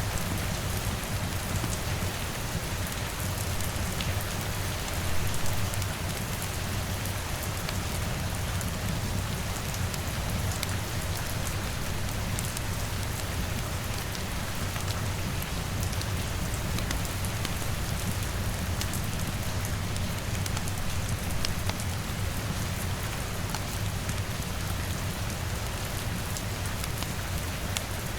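Steady rain with a low rumble underneath, mixed with the scattered sharp crackles of a wood fire. The sound briefly swells about five seconds in.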